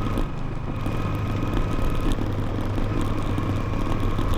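Motorcycle engine running at a steady speed while riding, with a constant low hum.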